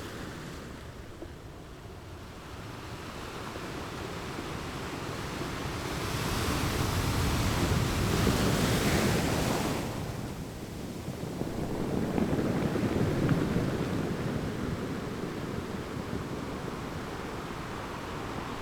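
Sea waves breaking and washing on the shore: two swells of surf, the first and loudest about six seconds in and a second around twelve seconds in.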